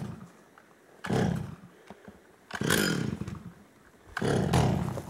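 Stihl chainsaw engine running in three short bursts, each under a second, with near-quiet gaps between.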